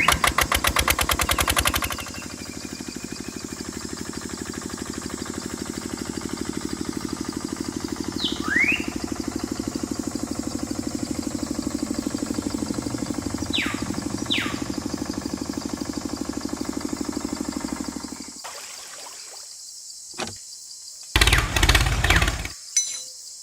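Small motor of a miniature DIY tractor water-pump rig running with a fast, even pulsing, louder for the first two seconds and then steady. It cuts off about 18 seconds in, and a few short loud bursts follow near the end.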